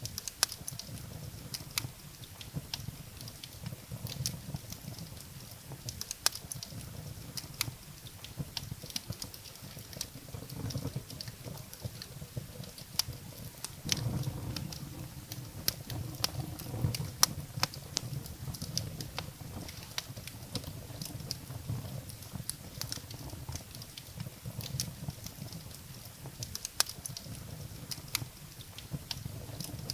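Firewood burning in a fireplace: a steady low rumble of the flames with frequent sharp, irregular crackles and pops of the wood.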